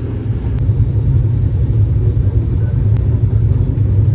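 Steady low rumble of a moving express train, heard from inside a sleeper coach.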